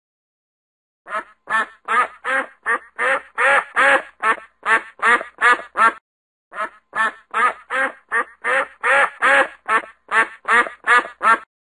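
A duck quacking in two long runs of quick quacks, about three a second, with a short pause about six seconds in.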